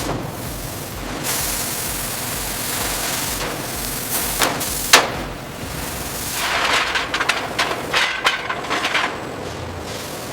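Factory work noise: a steady hiss, two sharp knocks, then a fast clatter of metal clicks and knocks.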